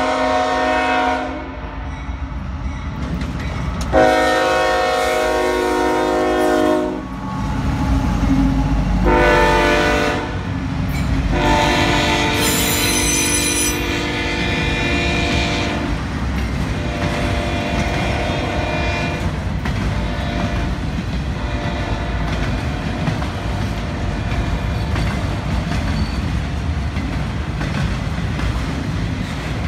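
Union Pacific freight locomotive's air horn sounding the grade-crossing pattern: a long blast ending, another long blast, a short one and a final long one. As it passes, the heavy rumble and clickety-clack of the freight cars rolling by builds and carries on steadily.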